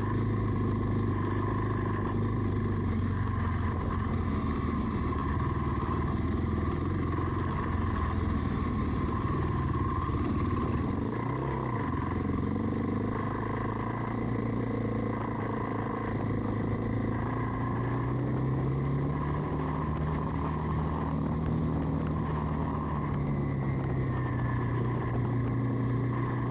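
Dual-sport motorcycle engine running while riding along, its pitch rising about two-thirds of the way through and easing back again near the end.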